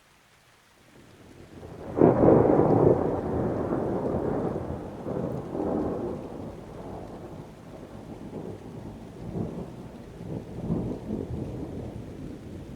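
Thunder with rain falling: a rumble builds over the first two seconds, breaks into a loud clap about two seconds in, then rolls on in several fading waves.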